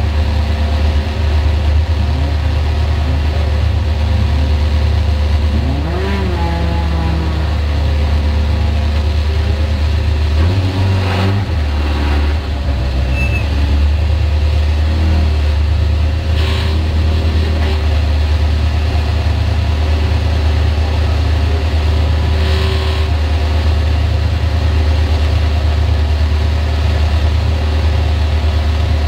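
Škoda 136 Rapid rally car's rear-mounted four-cylinder engine idling steadily, heard from inside the cabin.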